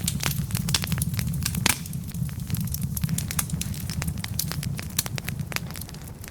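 Wood fire burning, its logs crackling with frequent sharp pops over a steady low rumble, with one louder pop about a second and a half in.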